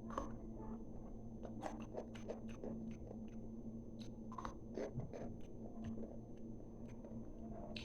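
Chewing raw green bell pepper with salt: irregular crisp crunches and wet mouth sounds.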